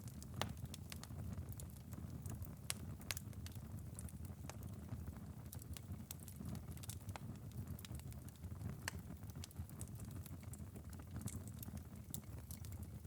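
Wood fire burned down to a bed of glowing embers, crackling and popping with irregular sharp snaps over a low steady hiss and rumble.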